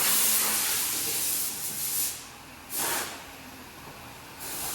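Compressed air hissing from an air nozzle in blasts, blowing hedge-trimming debris out of a tractor: one long blast that fades out about two seconds in, a short blast about three seconds in, and another starting near the end.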